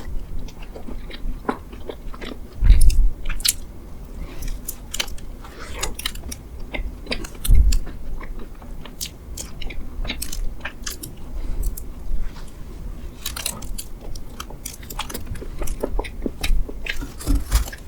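Close-up mukbang eating of mammoth bread: biting and chewing with many small crisp mouth clicks. Two low thumps stand out, about three seconds in and again about seven and a half seconds in.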